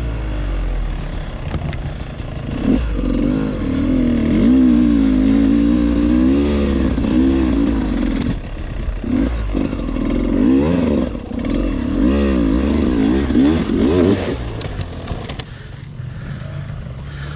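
Dirt bike engine revving up and down as the bike is ridden along a trail, with some clattering knocks; the engine eases off near the end.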